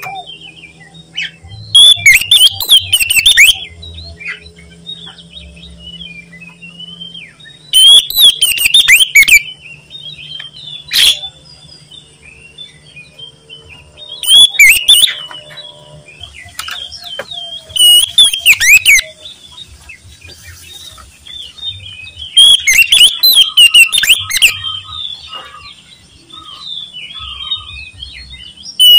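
Oriental magpie-robin (kacer) singing loudly: about six bursts of fast, varied, whistled phrases a few seconds apart, with softer chirps between them.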